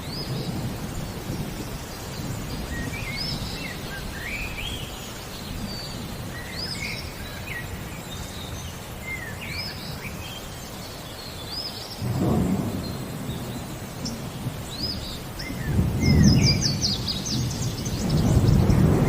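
Songbirds chirping with short rising-and-falling notes and a fast trill near the end, over light rain. Low thunder rumbles build about twelve seconds in and twice more near the end, the last rumbles the loudest.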